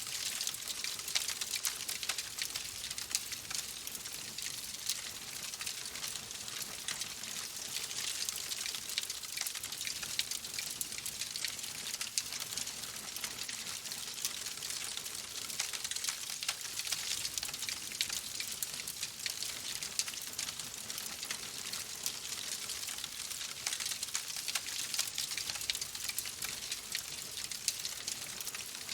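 Wood fire crackling steadily, a dense run of small pops and snaps over a soft hiss.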